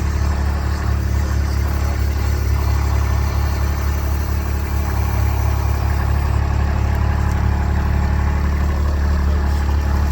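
Kubota utility vehicle's engine running steadily at low speed while towing a light chicken tractor across a field.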